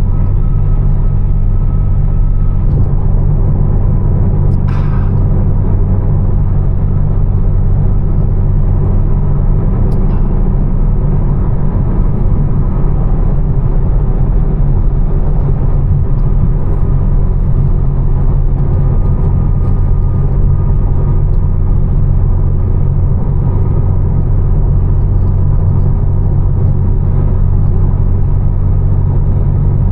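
Steady low drone of a tuned, catless BMW M4 Competition's twin-turbo inline-six exhaust and road noise, heard inside the cabin while cruising at an even speed with no revving.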